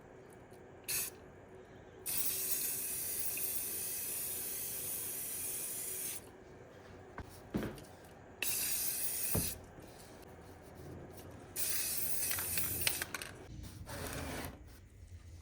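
Aerosol spray can hissing in three bursts, a long one of about four seconds then two short ones, with a couple of light knocks in between.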